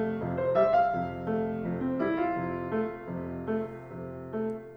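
Solo piano playing a short interlude between sung sections: a quick succession of struck notes and chords that grows softer toward the end.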